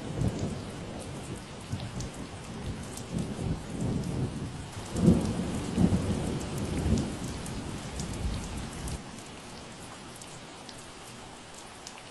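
Steady rain falling, with scattered drops ticking, under a low rumble of thunder that swells about five seconds in and dies away about nine seconds in.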